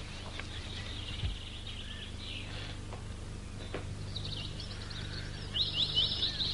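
Songbirds singing in rapid high trills over a low steady hum, the birdsong growing louder about five and a half seconds in.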